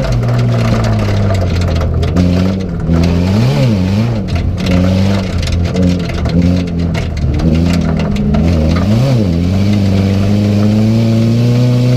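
Autocross car's engine heard from inside its stripped cabin, running hard under racing load. Its pitch briefly jumps up and drops back three times, about three to four seconds in and again about nine seconds in, then holds steady near the end.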